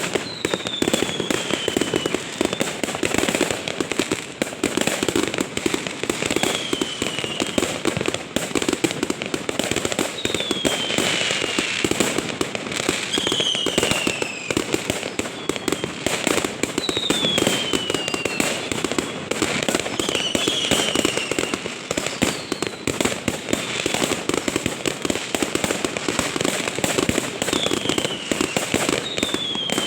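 Fireworks going off without a break: a dense crackle of small bursts, with a falling whistle every few seconds.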